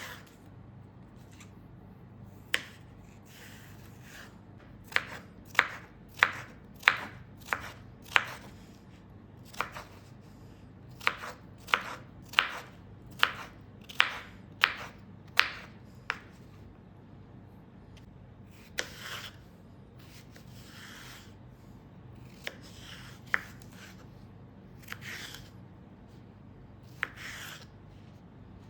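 A run of sharp knocks on a hard surface, about one and a half a second through the middle stretch, then a few scattered single knocks, with softer rubbing or scraping between them.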